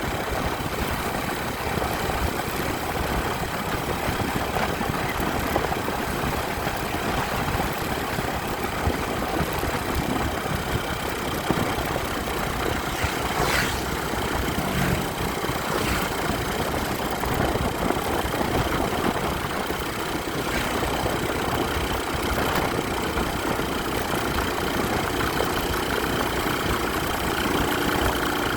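Motorcycle engine running steadily, heard as a dense, even noise. Near the end a steadier tone comes in.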